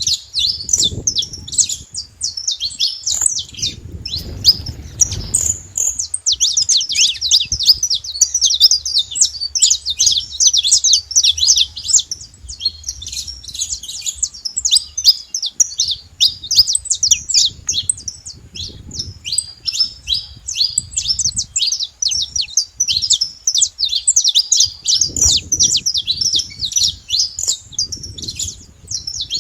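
Saffron finch song: a near-continuous stream of quick, high chirping notes.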